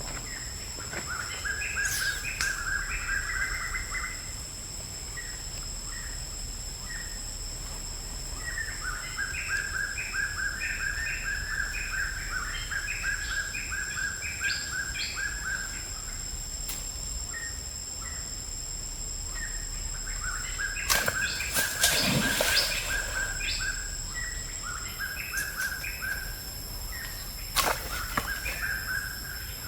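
Birds chirping in bouts of quick, repeated notes over a steady high-pitched whine. A few sharp clicks and a louder, brief rustling burst come about three-quarters of the way through.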